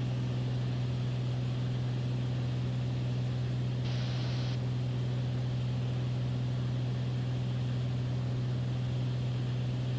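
Beechcraft Bonanza's piston engine and propeller droning steadily in cruise, a constant low hum heard inside the cabin. A brief hiss breaks in about four seconds in.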